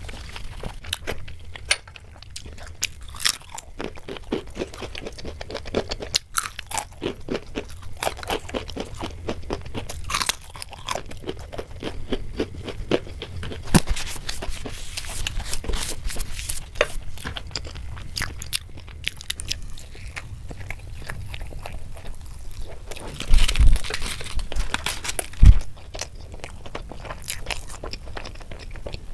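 Close-miked chewing and wet mouth sounds of someone eating Indian sweets, full of small sticky clicks and crackles. A couple of louder thumps come near the end.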